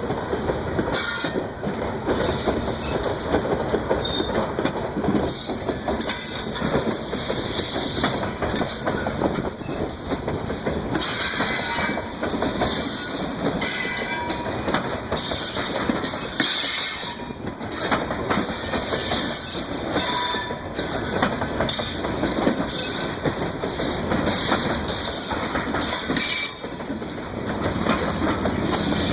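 Freight cars of a coal train rolling steadily past, wheels clicking over the rail joints, with a high hiss or squeal from the wheels coming and going.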